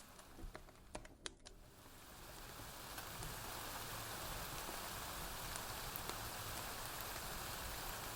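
Steady rain falling, with a few sharp pops from a crackling wood fire in the first second and a half. The rain grows louder over about two seconds, then holds steady.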